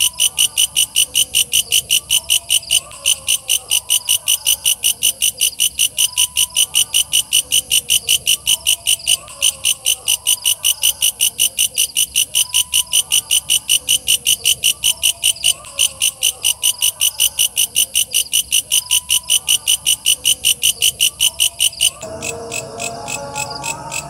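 Walang kecek bush cricket calling: a loud, rapid, regular train of high, shrill chirps, about four or five a second. It drops quieter about two seconds before the end.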